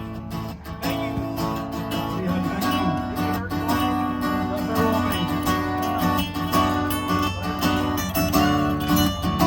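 Live band playing an instrumental passage led by strummed acoustic guitar, with a steady beat.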